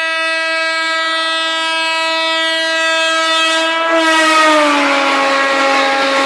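Train horn held in one long steady blast, its pitch dropping about four seconds in as the train passes. The rushing noise of the passing train rises at the same moment and fills the rest of the sound.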